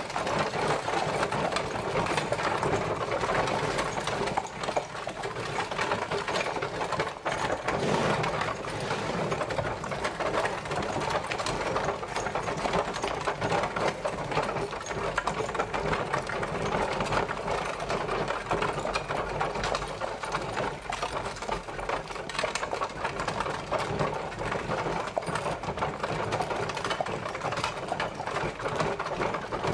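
Horse-drawn carriage travelling: a continuous, dense rattle and clatter of the rolling carriage.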